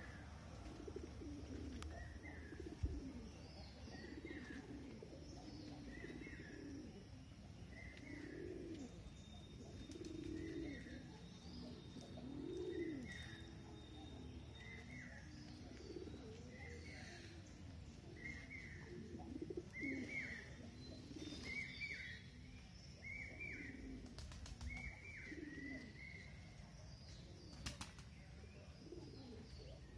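Birds calling: a short high note repeated every second or two, growing louder toward the end, over irregular low cooing calls.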